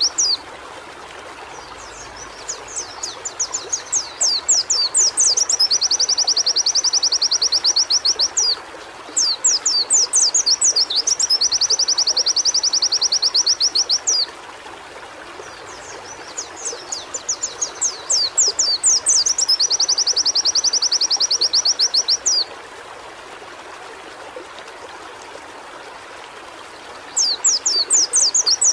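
White-eye (pleci) singing in repeated high-pitched bouts: each starts with quick down-slurred 'wit' notes that run into a long, fast trill, with pauses of a few seconds between bouts. A steady background hiss sounds throughout.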